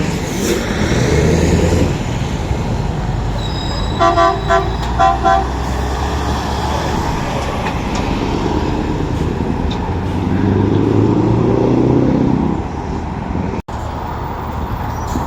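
Lorry engines and traffic running past, with a quick series of about five short horn toots about four seconds in.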